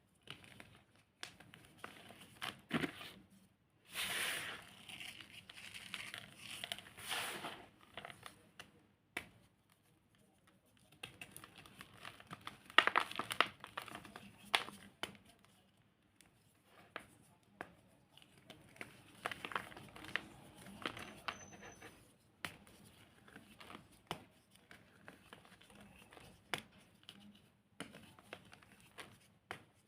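Pressed cornstarch blocks (cornstarch reforms) being crumbled and crushed by hand, giving crunchy, crackling bursts in irregular spells with sharp clicks between them.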